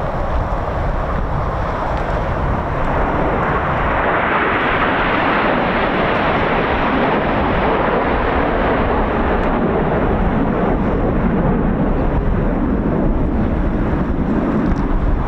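Red Arrows BAE Hawk T1 jet noise: a steady jet rush swells to its loudest a few seconds in, then drops to a lower rumble as the aircraft pass. Gusting wind buffets the microphone throughout.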